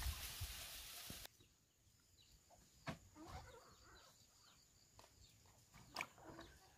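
Birds chirping faintly with short high calls, with a couple of soft knocks. A louder rushing noise cuts off suddenly just over a second in.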